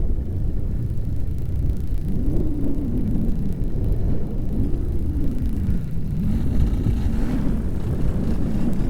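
Paramotor engine running in flight under heavy wind rumble on the microphone, its tone wavering up and down several times.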